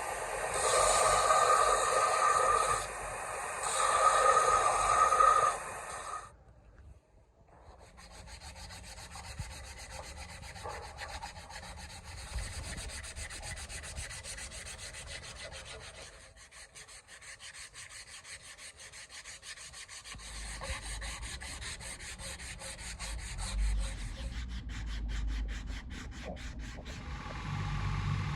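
Abrasive sanding and rubbing in several short stretches. It starts loud for about six seconds, stops briefly, then goes on more softly as steady rubbing strokes, with a low rumble joining near the end.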